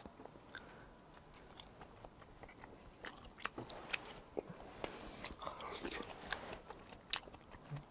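A person chewing a mouthful of tteok-bokki (spicy stir-fried rice cakes) close to the microphone: faint, irregular mouth clicks and smacks, sparse at first and more frequent after a few seconds.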